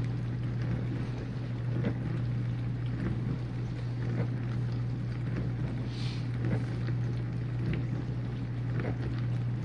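Whirlpool dishwasher running, its pump motor giving a steady low hum while water sprays and splashes inside the tub.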